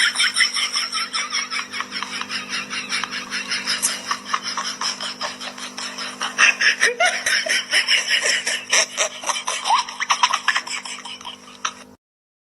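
High-pitched, rapid laughing that keeps going almost without a break, over a steady low hum, and cuts off suddenly near the end.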